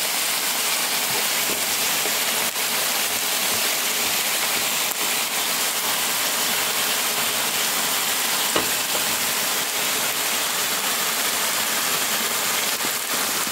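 Marinated chicken pieces (Korean dakgalbi) sizzling steadily in a hot frying pan, with a few small pops of spitting fat.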